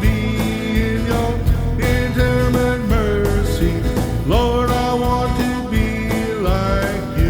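A live church worship band playing country-style music: guitar and a steady drum beat under a held, sliding melody line.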